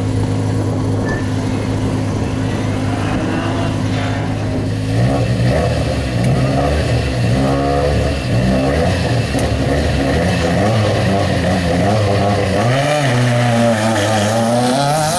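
Peugeot rally car's engine idling steadily, then revved up and down repeatedly while held at the stage start line. Near the end the revs climb steeply in one long rise as the car launches.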